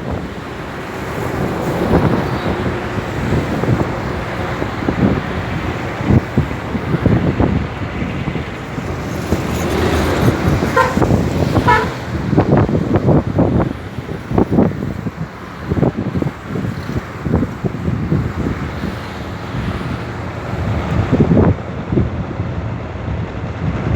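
Small tugboat's engine running, with heavy wind buffeting on the microphone. About halfway through there is a short run of high, evenly repeated tones.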